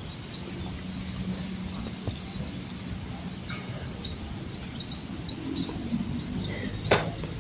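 Small birds chirping in many short, quick notes over a steady outdoor background hum, with one sharp click near the end.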